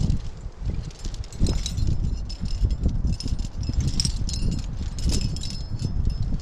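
Metal climbing hardware, carabiners and gear on a harness, clinking and jangling as the climber moves, over a constant low rumble.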